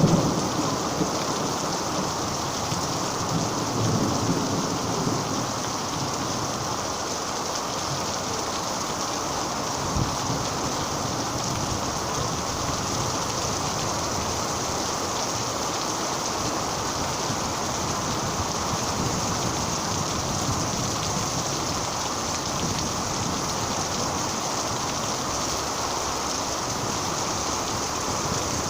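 Steady heavy rain falling. A low thunder rumble fades out in the first second and swells again briefly about four seconds in, and a single short knock comes about ten seconds in.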